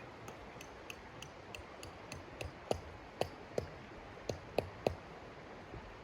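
A run of light, evenly spaced clicks, about three a second, then six louder knocks in the second half, over a steady hiss.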